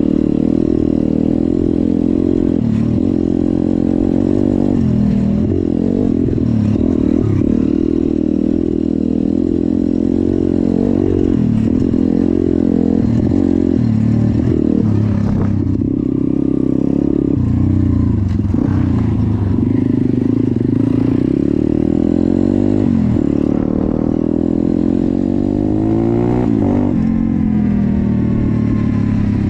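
Small single-cylinder motorcycle engine running on the move, its revs rising and falling again and again with the throttle and gear changes, and a rising run-up near the end.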